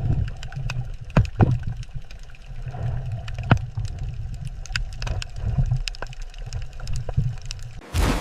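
Underwater ambience: a steady low rumble with scattered sharp clicks and gurgles, then a sudden loud rush of noise near the end.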